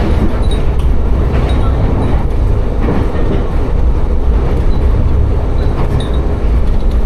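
Tsugaru Railway train running along the line, a steady loud rumble with the clatter of wheels over the rails. Faint high tinkles of wind chimes hung in the car ring now and then over it.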